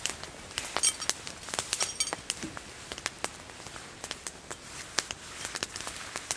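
Campfire of wet wood crackling, with many irregular sharp pops and snaps and a couple of brief high-pitched sizzles.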